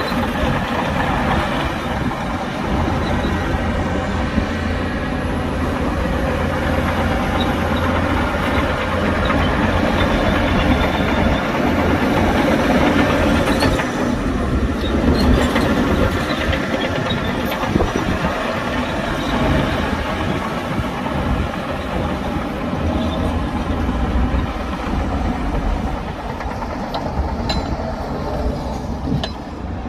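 Heavy diesel earthmoving machinery running steadily under load: a bulldozer and dump truck working, with a few short metallic clanks.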